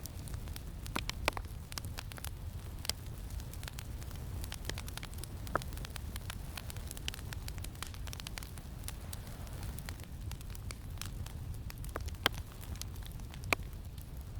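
Campfire crackling, with irregular small pops and a few sharper ones, over a steady low wind rumble.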